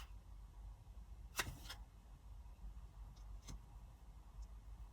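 Quiet room hum with a few faint clicks: a short rustling click about a second and a half in, a sharper click a couple of seconds later, and two fainter ticks.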